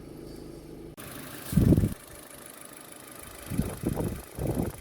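Car engine idling steadily, with a few loud, short, low bumps about a second and a half in and again near the end.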